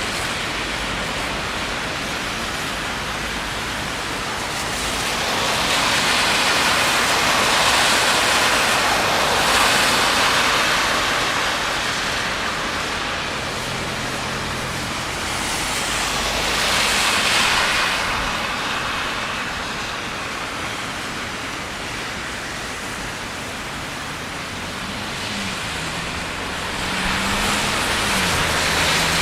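Rain and wet-road traffic hissing steadily, with vehicles swishing past on the wet street: two long swells, about a quarter of the way in and again just past halfway, and a low engine hum rising near the end.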